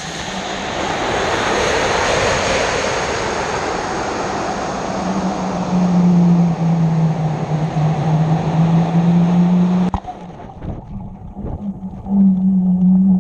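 Air rushing past a model rocket's onboard camera as it climbs on an F motor, fading slowly, with a steady low hum from about five seconds in. About ten seconds in there is one sharp pop, then lighter, uneven wind buffeting.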